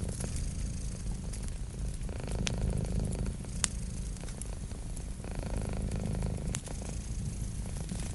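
Domestic cat purring close up, a steady low rapid rumble that swells and eases with its breathing about every three seconds. A few sharp crackles from a wood fire pop over it.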